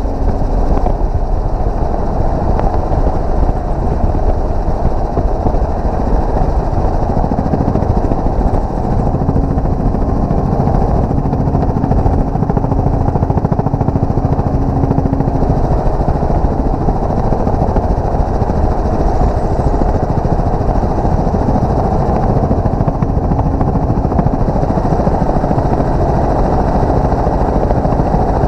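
Helicopter running in flight: a loud, steady rotor and engine noise.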